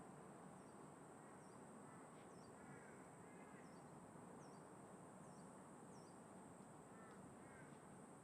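Faint crows cawing, about four calls in two pairs, with a run of small, high, evenly spaced bird chirps in the first half. Under them is a steady low wash of wind and distant traffic.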